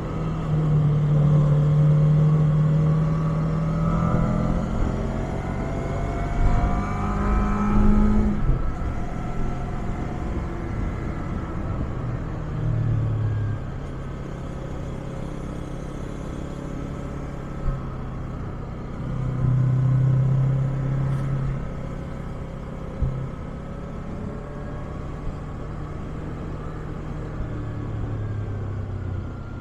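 Yamaha MT-25 parallel-twin engine through its stock muffler, ridden on the road. Over the first several seconds the revs climb and step with gear changes, then it runs more steadily, with short swells of throttle around the middle and a couple of sharp blips.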